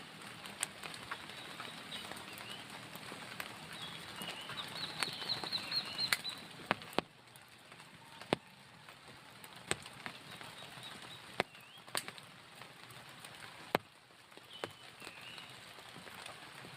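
Rain falling steadily, with single heavy drips landing now and then as sharp, loud ticks. Short high chirps come in two brief clusters, around five seconds in and again near the end.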